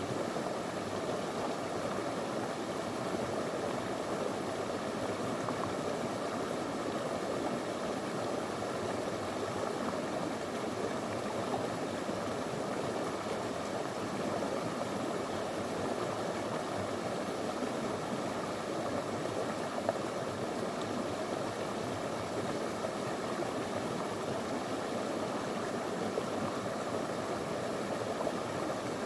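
Small river flowing over stones, a steady, unbroken rush of water.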